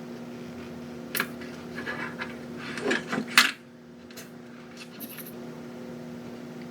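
Scattered clicks, knocks and scrapes of small plastic and metal parts being handled during a lamp teardown, loudest about three seconds in, over a steady low hum.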